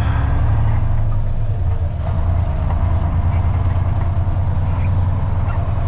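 Freightliner dump truck's diesel engine running with a steady low drone, heard inside the cab.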